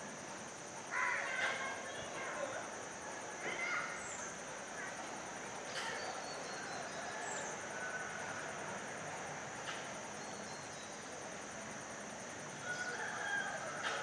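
Red-wattled lapwing giving short harsh calls in a few separate bouts, about a second in, near four seconds and again near the end, over a steady high-pitched background buzz.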